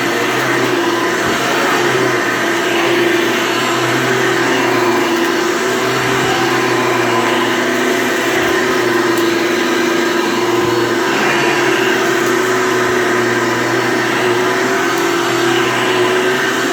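Hoover Elite vacuum cleaner running steadily, its motor giving a constant hum over a broad rushing airflow noise, with small wavers in level as it is worked over the floor.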